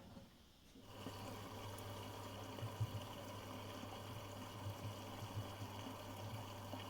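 Miele Professional WS5436 washing machine mid-wash. After a quiet pause of about a second, a steady low motor hum starts with water sloshing in the drum and a few soft knocks.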